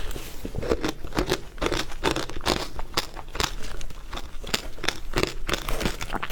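Frozen matcha ice being bitten and chewed close to the microphone: an irregular run of sharp, crackly crunches, several each second.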